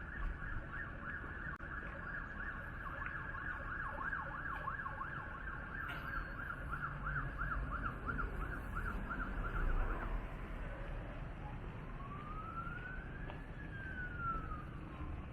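Emergency vehicle siren, a fast warbling yelp for about ten seconds that switches to one slow rising and falling wail, over a steady low rumble.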